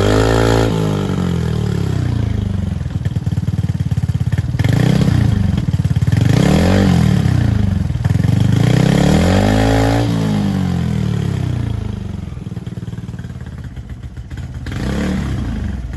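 Suzuki Address V125 scooter's single-cylinder four-stroke engine being revved in a series of throttle blips, each rising and falling back, settling lower for a few seconds near the end before one last rev.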